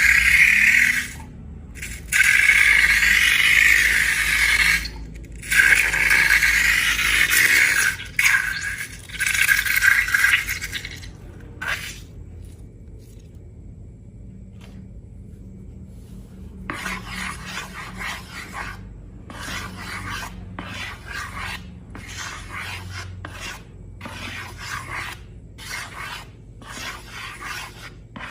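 Scraping and rubbing strokes, loud and dense at first with short breaks. After a pause of a few seconds, quieter repeated strokes follow at about one a second.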